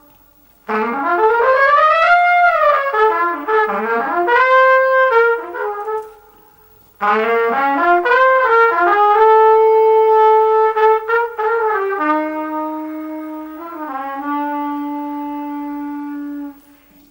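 Solo jazz trumpet with an upturned, bent bell, played in two phrases: the first scoops and glides up to a high note and back down, and after a short pause the second runs through several held notes and ends on a long low note.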